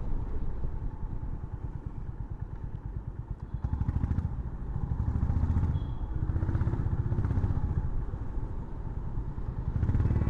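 Honda CB350 Highness's single-cylinder engine running at low revs through a U-turn, then pulling harder and louder from about four seconds in as the motorcycle accelerates away.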